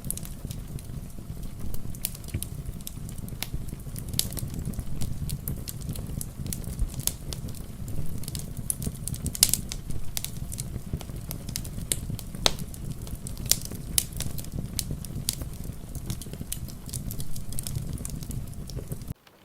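Wood fire in a fireplace crackling with frequent sharp pops, over a steady low rush mixed with rain. The sound drops out for a moment near the end.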